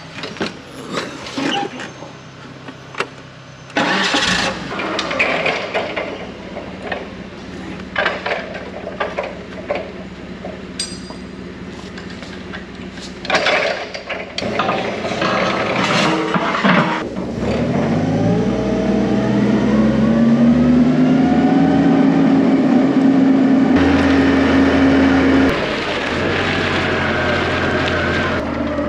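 Scattered metallic clanks and knocks, then an engine starts about two-thirds of the way in and revs up, holds a steady higher speed for a few seconds, and drops back to a lower steady speed near the end.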